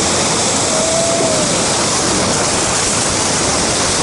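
Whitewater rapid on the Colorado River: a loud, steady rush of churning water around the raft.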